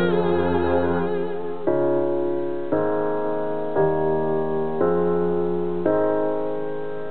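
Slow piano or electric-piano chords from a ballad backing track, struck about once a second and each left to ring and fade. A wavering held note dies away in the first second or so.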